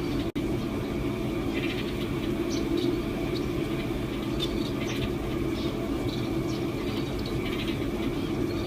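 Small ornamental cage birds giving short, high chirps every second or so over a steady low hum.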